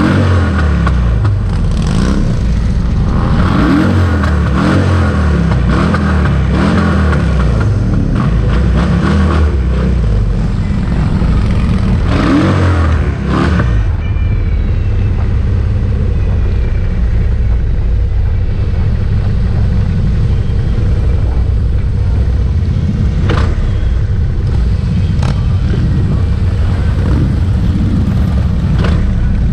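A stream of motorcycles riding past, their engines running loudly and steadily. Over the first several seconds, engines rev up and down as bikes pass.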